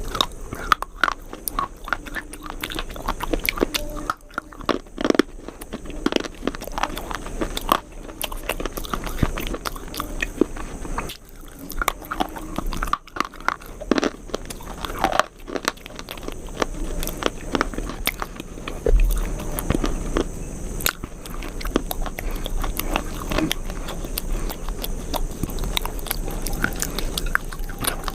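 A person chewing and biting crunchy food close to the microphone: many small, irregular crunches and crackles.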